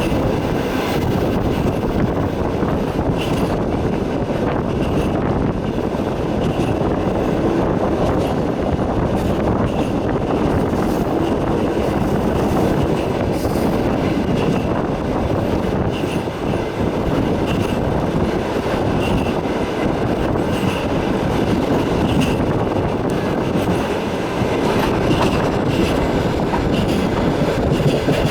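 Passenger train running on the rails, heard from inside the carriage: a steady rumble of wheels and carriage, with brief high-pitched notes here and there.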